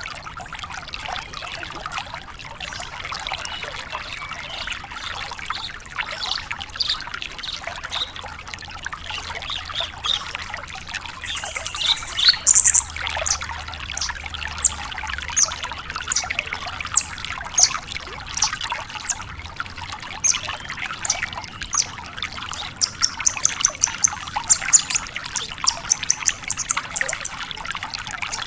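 Branjangan lark singing a dense, continuous chattering song. From about a third of the way in it adds sharp, high whistled notes repeated every second or so, and near the end a fast run of high notes.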